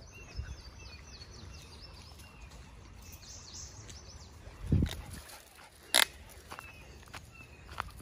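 Small birds singing: quick series of high, falling chirps at the start and again about three seconds in, with scattered thin whistled notes. A dull low thump comes near the five-second mark and a sharp click about a second later.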